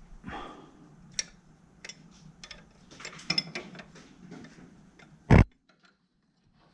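Hand tools clicking and clinking in irregular short ticks, with one loud knock about five seconds in.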